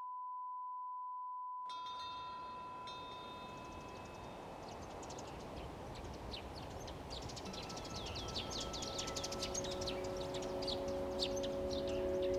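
Small birds chirping in quick, short downward-sweeping calls over a steady outdoor hiss. Before the birdsong starts, a pure ringing tone stops about two seconds in. Low sustained tones come in faintly near the end.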